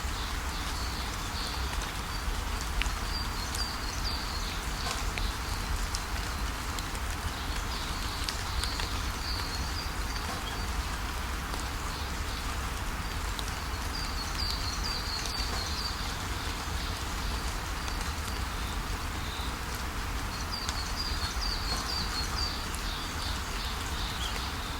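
Steady rain falling, with small scattered drop ticks. Brief clusters of high bird chirps come in several times, a few seconds apart.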